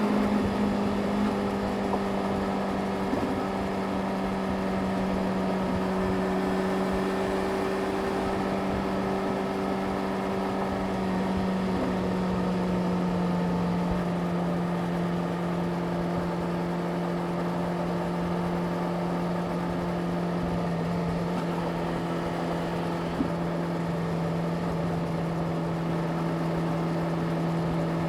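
Yamaha YZF-R6's inline-four engine running at a steady engine speed while riding. It holds one even pitch, then settles slightly lower about halfway through and holds there.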